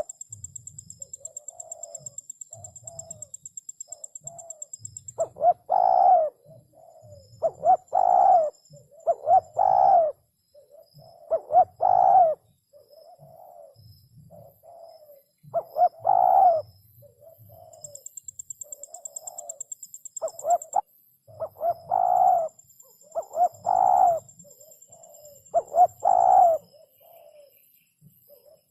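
Spotted dove (chim cu gáy) cooing: a string of hollow coo phrases. Loud notes come every two seconds or so, with softer, shorter coos between them. This is the male's crowing song, as played to lure wild doves.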